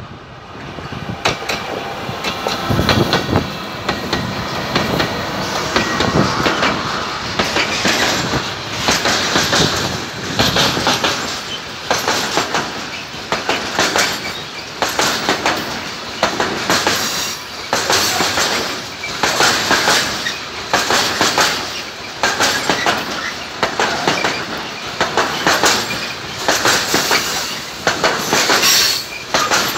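Two BB 75000 diesel-electric locomotives pass at the start, followed by a long train of grain hopper wagons rolling by close up. The wheels clatter over the rail joints in a steady clickety-clack of about one loud burst a second.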